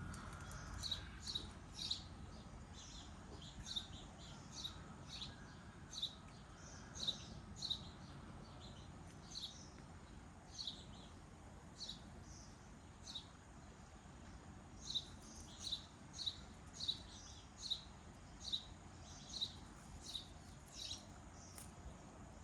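A bird chirping: short, high chirps repeated irregularly, one or two a second, over faint low background noise.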